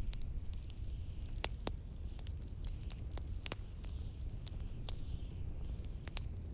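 Wood fire crackling with scattered sharp pops over a steady low wind rumble and a faint hiss that swells and fades.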